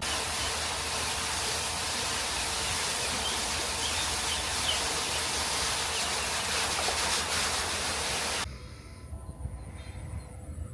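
Steady hissing outdoor noise that cuts off suddenly about eight seconds in, giving way to a much quieter background.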